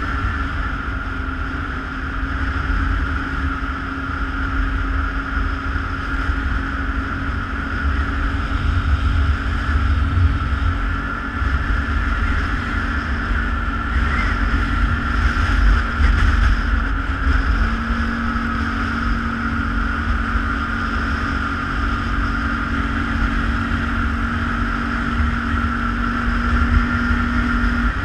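ATV engine running steadily while riding, its engine note stepping up slightly about two-thirds of the way in, with wind rumbling on the microphone.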